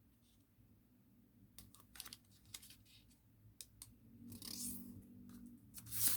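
A sheet of thin origami paper being handled and folded by hand: scattered small crinkles and taps, a longer rustle about four seconds in, and a sharp crackle near the end as a fold is pressed flat.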